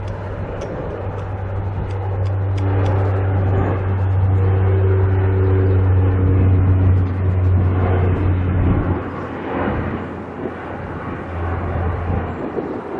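Turboprop airliner's propellers and engines running with a steady low hum, growing louder to a peak about two-thirds of the way in and then easing off.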